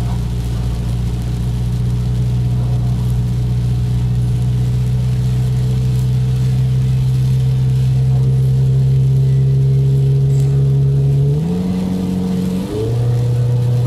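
Subaru XV's engine and drivetrain droning steadily in the cabin while cruising, a low pitched hum. About eleven seconds in the pitch jumps up, and a second later it dips briefly and settles back to the earlier pitch. The owner calls it a strange noise heard since revving to high rpm and does not know its cause.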